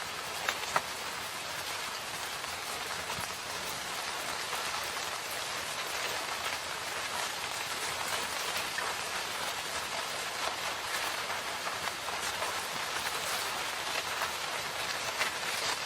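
Steady rain falling in a forest, an even hiss of rain with scattered sharper drip ticks, a few louder drops near the start.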